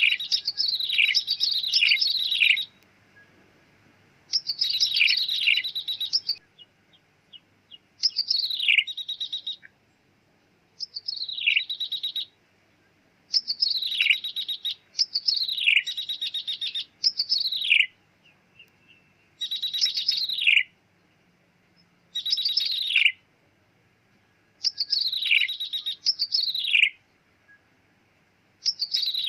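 Ciblek tebu, a prinia, giving repeated mewing calls that slide downward with a buzzy edge. They come in groups of one to four, with short pauses between the groups. This is a lure call recording used for trapping the bird.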